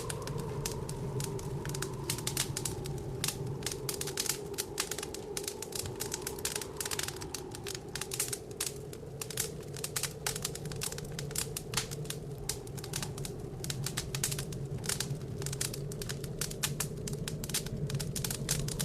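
Wood fire crackling in a fireplace: dense, irregular pops and snaps throughout. Under it, a steady low blizzard wind.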